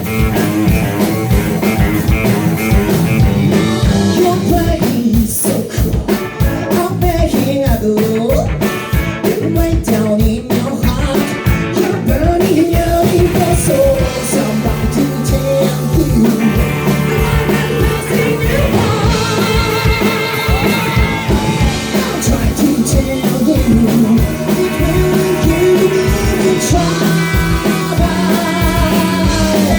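Live rock band playing with a male vocalist singing over it: voice, guitar and a steady drum beat, with some long held notes sung with vibrato.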